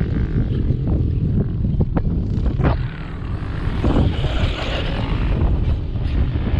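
Electric RC monster truck running over rough ground, its motor whirring, with a heavy low rumble and a few sharp knocks from the chassis and tyres hitting the terrain, about two and three seconds in and again near four.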